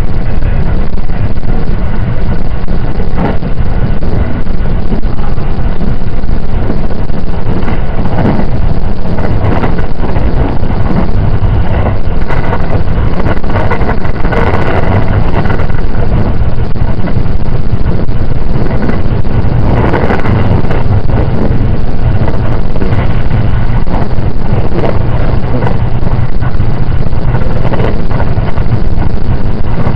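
Passenger-cabin noise of a JR 681 series electric multiple unit under way: a loud, steady rumble of wheels on rail and running gear, with brief swells of hiss a little before the middle and again about two-thirds through.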